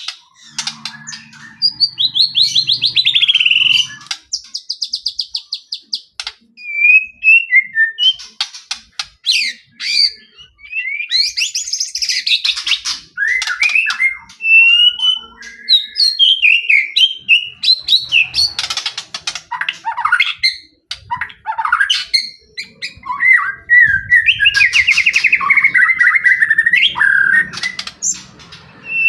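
White-rumped shama (murai batu) singing a loud, varied song. Whistled notes that slide up and down are mixed with fast buzzy trills, one near the start and one near the end, and quick runs of sharp clicking notes.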